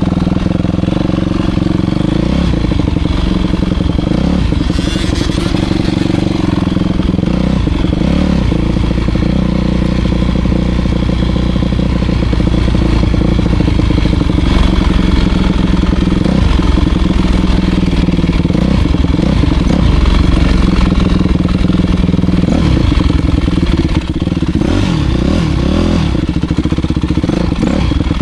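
Dirt bike engine running loudly throughout, its pitch rising and falling as the throttle is opened and closed while riding.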